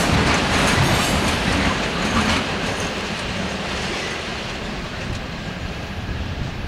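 Freight train of open-top gondola wagons rolling past, its wheels clattering over the rail joints and switches. The sound eases off gradually through the second half.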